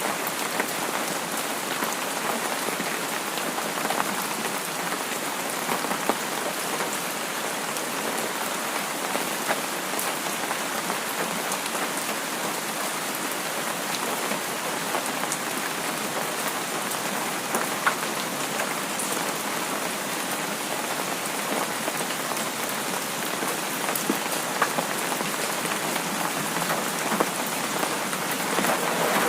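Steady rain falling: an even hiss with many scattered drops ticking.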